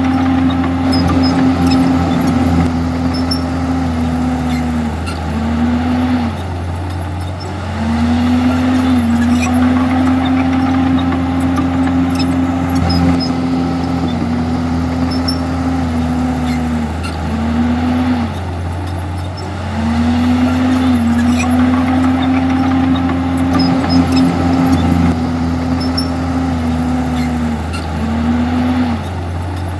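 Komatsu bulldozer's diesel engine running steadily, its pitch holding and then dipping briefly a few times in a pattern that repeats roughly every eleven seconds.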